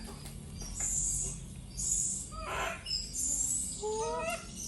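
High-pitched bird chirps repeating about once a second, with a short rising call near the end.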